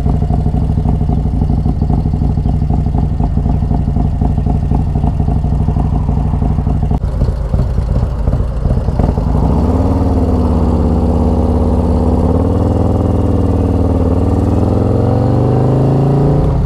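Harley-Davidson Road Glide's 128-cubic-inch V-twin with a 2-into-1 exhaust riding off. It gives a lumpy low rumble for the first half, then from about halfway a steady engine note that climbs slowly as the bike picks up speed.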